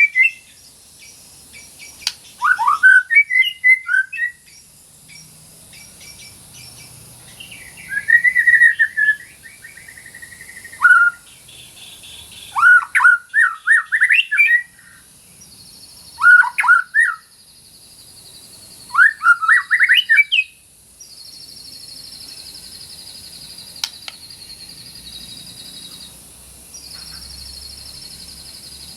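White-rumped shama (murai batu) singing: loud whistled phrases that sweep up and down, coming in short bursts every few seconds. Through the second half a fainter, high, even trill runs underneath.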